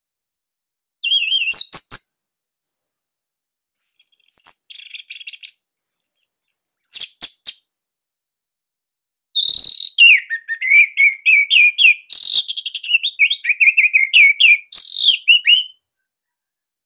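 Orange-headed thrush singing: a few short phrases of high whistled trills and rapid clicking notes, then a long unbroken run of quick, varied notes in the second half.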